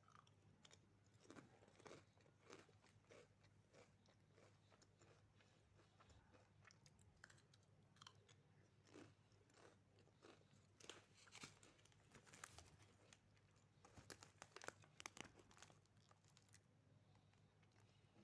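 Faint, irregular crunching of someone chewing a crunchy junk-food snack, with the crunches coming thicker a little past halfway. A faint steady low hum runs underneath.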